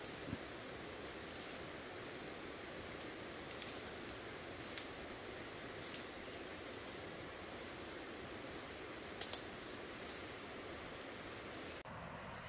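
Steady outdoor background hiss with a faint, thin, high insect-like tone and a few sharp clicks, two of them close together about nine seconds in.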